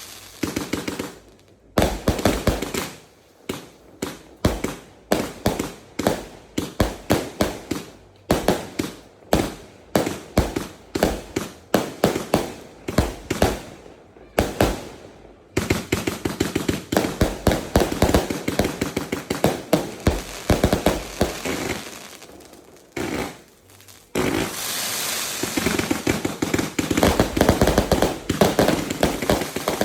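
Fireworks going off in a long, rapid run of sharp bangs, several a second. After a brief lull the bangs become a dense, nearly continuous crackle near the end.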